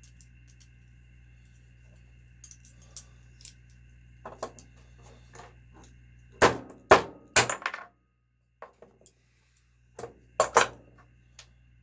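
Small metal nitro engine parts clinking and knocking as a seized bearing is worked loose: scattered light clicks, then a cluster of sharp metallic knocks about six and a half seconds in and two more near the end.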